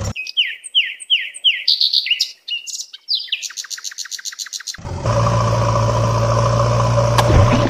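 Birdsong: a run of quick descending whistled notes, then a fast rattling trill, with no other sound under it. About five seconds in it gives way abruptly to a steady engine drone.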